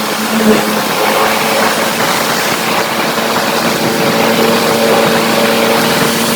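Motorcycle engine running at a steady pitch, with a constant rush of wind noise.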